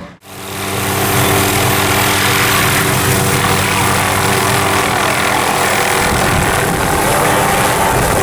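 Helicopter running steadily: an even hum of several tones over the engine and rotor noise, with a faint high whine. It comes in after a short break at the very start.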